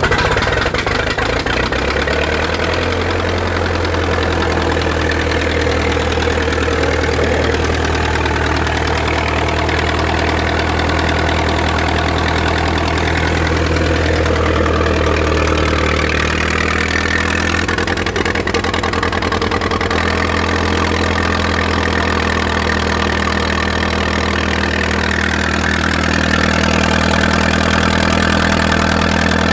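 An engine running loudly and steadily at idle, with no break in its sound.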